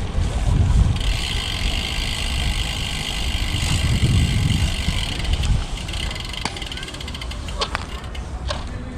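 Road bike coasting: the rear freewheel hub ticks rapidly, thinning out after about five seconds, over low wind and tyre rumble, with a few sharp clicks and knocks near the end.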